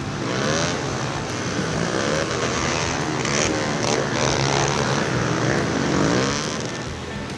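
Several pit bike engines revving together, their pitch rising and falling as they accelerate and back off.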